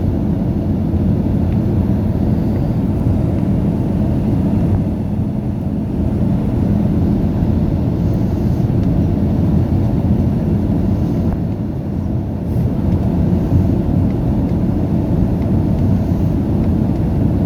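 Steady low rumble of an Airbus A319 airliner's engines and airflow, heard from inside the cabin during the approach and landing.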